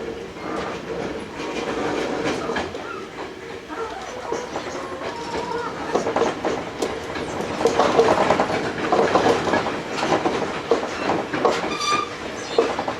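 Hankyu 8000 series electric train running, heard from inside the car: the steady tone of its Toshiba GTO-VVVF traction equipment under frequent clicks and clatter of the wheels over rail joints and points, growing louder about two-thirds of the way in.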